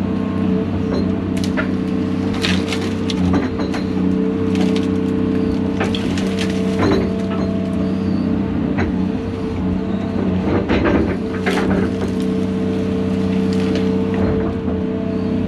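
John Deere 250G LCR excavator's diesel engine running steadily under load while wood cracks and snaps repeatedly as brush and branches are broken and crushed.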